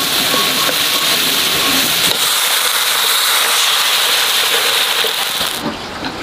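Vegetables and tomato sizzling loudly in a hot wok, then a steady hiss of steam as liquid is poured onto the hot food. The sizzle cuts off about five and a half seconds in, leaving a quieter background.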